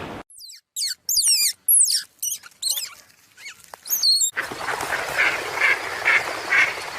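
A bird singing a run of high, quick whistles that sweep downward, followed about four seconds in by ducks quacking repeatedly.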